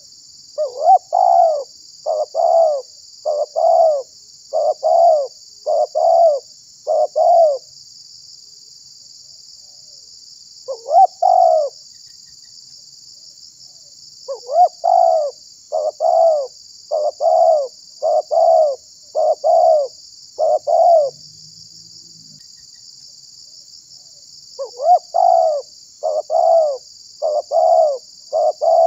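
Spotted dove (tekukur) cooing in long bouts of about seven evenly paced coos each, with pauses of several seconds between bouts and a single short phrase in one of the gaps.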